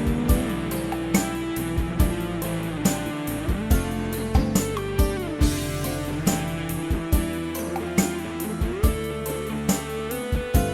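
Worship band playing an instrumental passage: a guitar melody with sliding notes over bass and drums keeping a steady beat of about two strikes a second.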